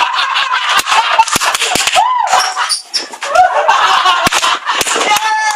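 A group of young people shouting and shrieking over each other, with one rising-and-falling shriek about two seconds in and sharp knocks or claps scattered throughout.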